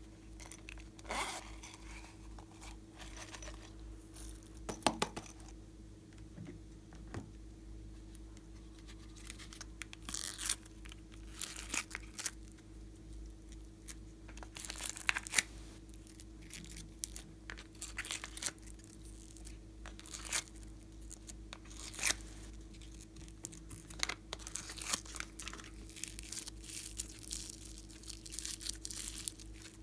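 Slime being kneaded and stretched by hand, giving irregular crackling, crinkling pops.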